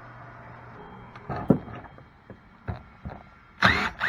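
Hand tools working on a cast-aluminium pump: several sharp metallic knocks and clinks, the loudest about one and a half seconds in, then a loud harsh scraping squeal near the end as a hex wrench works on the bolts.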